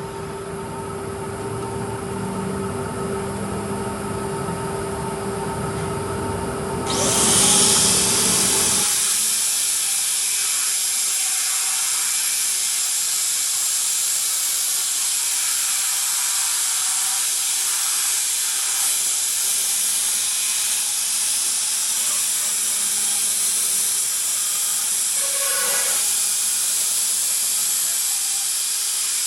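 A low machine hum with a steady tone, then a loud, even hiss that starts suddenly about seven seconds in and holds steady.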